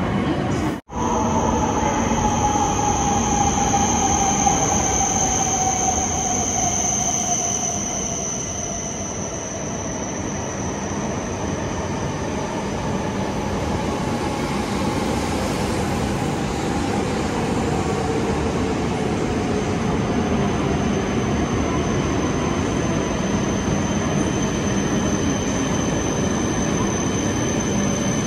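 Shinkansen bullet train coming into the station, its motor whine falling slowly in pitch as it slows, over a steady rushing noise with a thin high whistle above.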